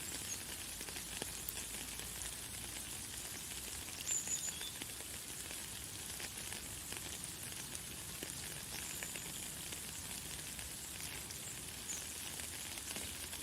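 Light, fine rain falling steadily with a dense, even patter and hiss. A few faint, short high bird chirps come through it, the clearest about four seconds in.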